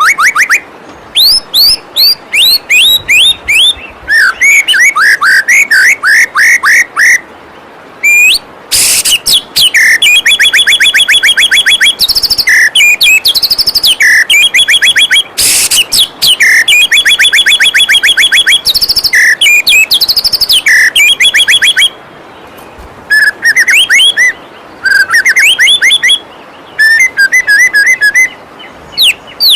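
White-rumped shama (murai batu) singing loud, varied phrases of whistles and rapid repeated-note trills, with short pauses between phrases, over the steady rush of a flowing waterfall.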